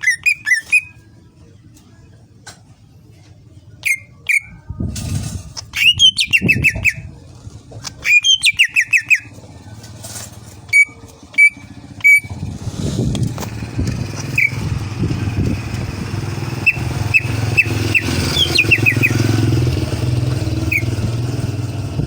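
Cucak ijo (green leafbird) singing in sharp whistled notes and fast rattling trills, with gaps between phrases. From about halfway a low engine rumble builds up underneath the song.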